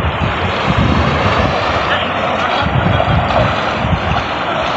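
Tata Nexon SUV driving through a river: its engine running under load, with water rushing and splashing around the car.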